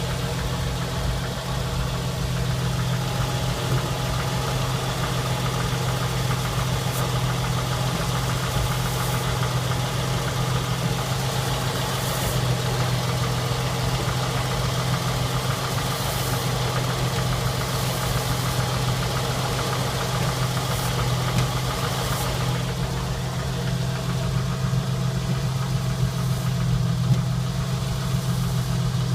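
Jeep CJ8 running steadily with its newly swapped-in AX15 five-speed manual transmission making noises that the owner has not yet diagnosed. It is a constant low drone with steady whine tones above it and a few faint clicks. The higher hiss eases off about three-quarters of the way through.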